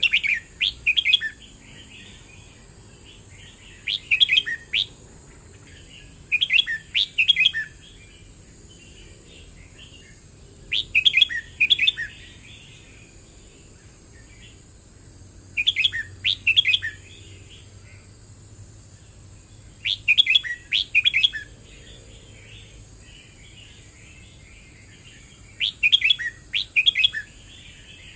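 Red-whiskered bulbul singing: seven short, loud, bubbling song phrases of about a second each, repeated every few seconds, with softer chattering notes between them. A faint steady high-pitched hiss runs underneath.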